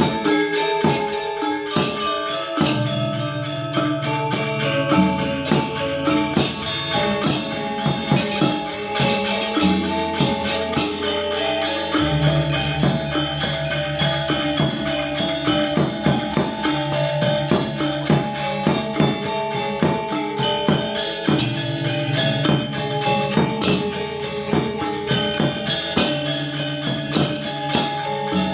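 Balinese gong kebyar gamelan ensemble playing: bronze metallophones in dense, fast strokes over shimmering ceng-ceng cymbals, with a deep gong tone sounding anew every few seconds.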